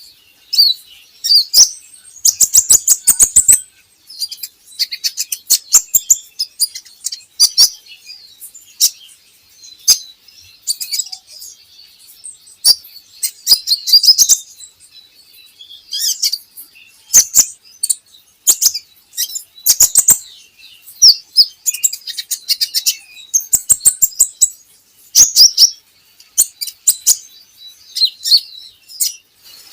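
Kolibri ninja (a small sunbird) singing: bursts of high, rapid chirps and trills, each about a second long, repeated every one to two seconds.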